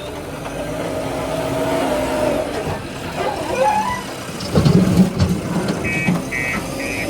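Diesel engine of heavy loading machinery running, with a louder surge about four and a half seconds in. A rapid high beeping starts near the end.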